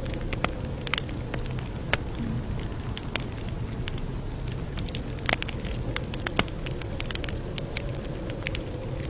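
Campfire crackling: a steady low rumble of burning with scattered sharp pops, a louder one about two seconds in and several more between five and six and a half seconds.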